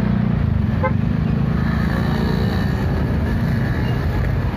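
Busy street traffic: motorcycle and car engines running in a steady low drone, with a short toot about a second in.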